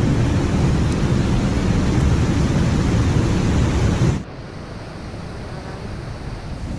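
Steady loud rushing noise with a heavy low rumble, which drops suddenly to a quieter, thinner rush about four seconds in.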